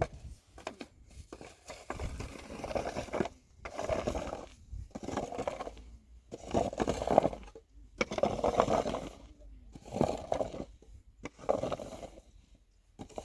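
Repeated scraping strokes, each about a second long, coming about once every second and a half.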